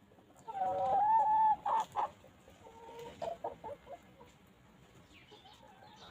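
Free-range chickens clucking: a drawn-out call a little over a second long about half a second in, two short calls right after, then a run of short clucks about three seconds in.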